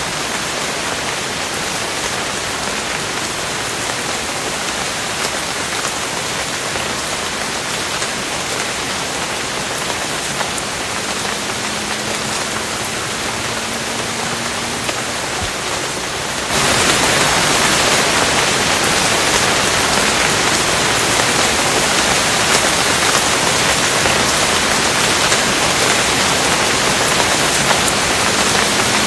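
Steady rain falling, an even hiss of drops. A little past halfway it jumps suddenly to a louder, heavier downpour and stays that way.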